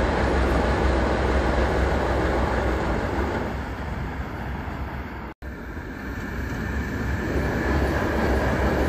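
A train running past on an elevated track, its steady rumble fading over a few seconds. After a split-second dropout, a second passing train's rumble builds back up.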